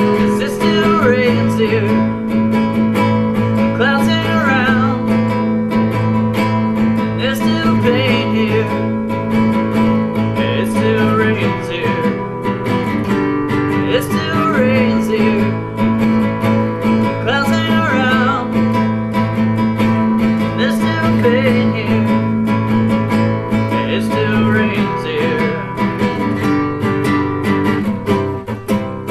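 Acoustic guitar strummed steadily in an instrumental passage of a song, with a wavering higher melody line that comes back every few seconds.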